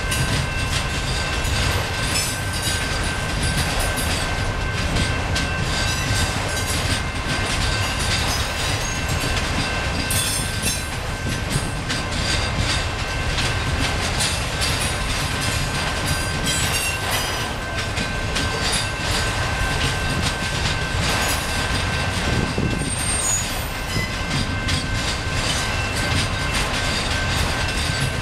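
Freight train of autorack cars rolling past close by: a steady rumble of steel wheels on rail with dense clicking over rail joints. Steady high thin wheel squeal runs over the top.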